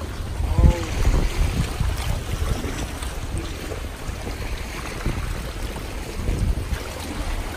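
Wind buffeting the microphone as a steady low rumble, over the wash of sea water at the shore. A short pitched sound comes about half a second in.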